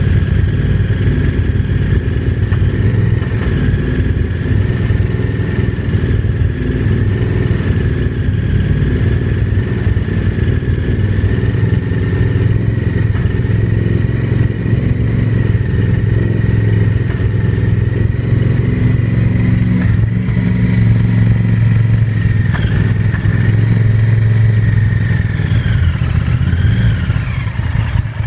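Honda VTR1000 V-twin motorcycle engine running steadily with a knocking clatter from inside the engine.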